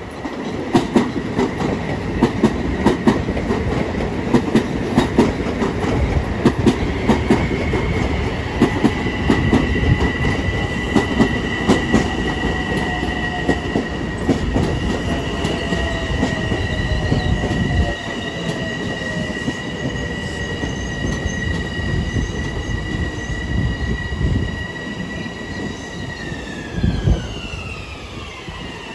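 Long Island Rail Road train running through the station, its wheels clicking rapidly over the rail joints, with a steady high whine that slides down in pitch a few seconds before the end.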